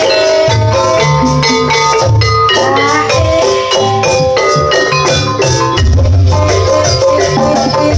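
Javanese jaranan gamelan music, played loud and steady: many struck metal notes ringing out over deep, repeated drum beats.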